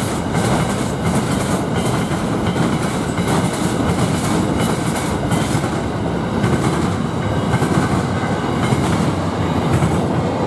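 Steel freight train rolling past at speed, its wheels clacking repeatedly over the rail joints amid steady rumbling and rattling.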